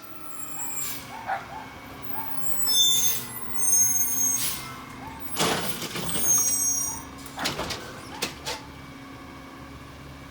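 Garbage truck engine running steadily, with several short hisses of air and bursts of high-pitched metallic squealing during the middle of the stretch.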